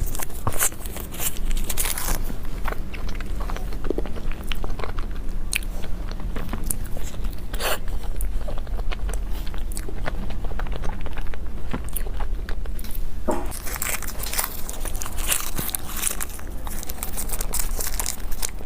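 Close-miked eating of desserts: biting and chewing with many small, irregular crackly clicks and smacks.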